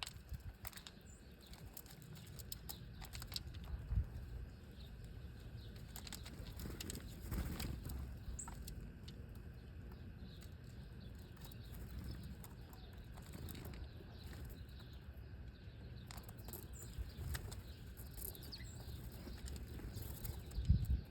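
Small birds' wings fluttering as they come and go, with a few faint chirps. Two soft knocks stand out, one about four seconds in and a louder one near the end.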